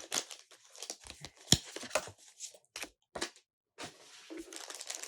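A McDonald's Pokémon trading-card pack wrapper being torn open and crinkled by hand, in a run of irregular short crackles and rustles, the sharpest about one and a half seconds in.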